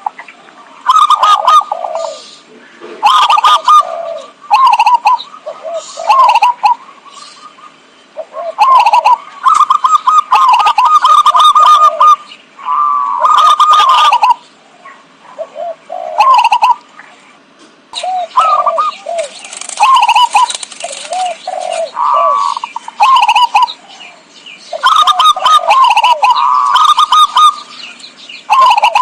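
Zebra dove (perkutut) cooing over and over in loud, clipped staccato phrases, a call used as a lure to trap perkutut.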